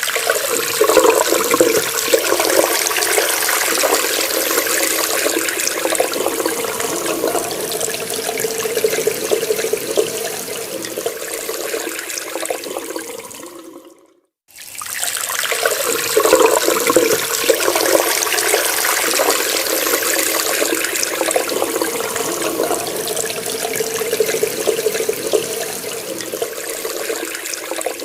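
Water running from a tap and splashing steadily. It cuts out briefly about halfway through, then the same stretch of running water starts again.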